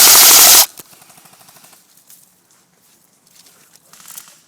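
Airsoft rifle firing on full auto at close range, very loud; the burst stops about half a second in. A quieter rapid rattle of fire follows for about another second.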